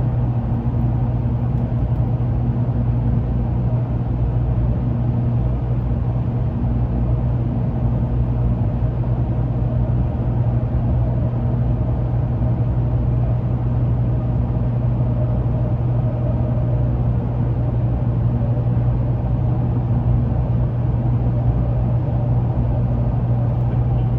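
Shinkansen train running at speed, heard from inside the passenger car: a steady, even rumble.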